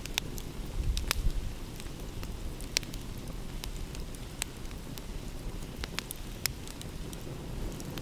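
Wood fire crackling, with irregular sharp snaps and pops about once or twice a second, over a steady low rumble.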